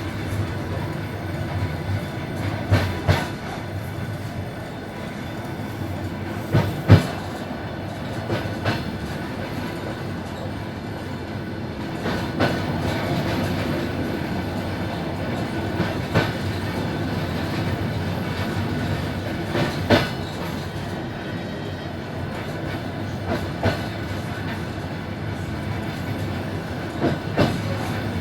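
Suburban passenger train running along the line: a steady rumble of wheels on rail with irregular sharp knocks as the wheels pass over rail joints, the loudest about seven seconds in.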